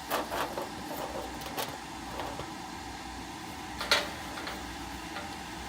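Steady low mechanical hum with a few light clicks and knocks, the sharpest about four seconds in.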